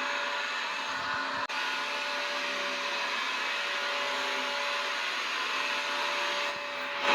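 Vacuum cleaner motor running steadily: a continuous airy rush with a faint steady whine. It cuts out for an instant about a second and a half in and gets markedly louder right at the end.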